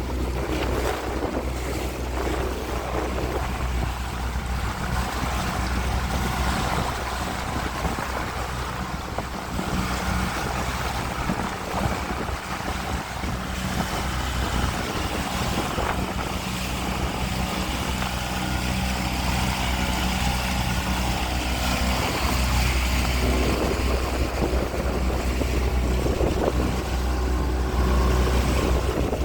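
Small boat's outboard motor running steadily at cruising speed, a constant low hum, with water rushing past the hull and wind buffeting the microphone.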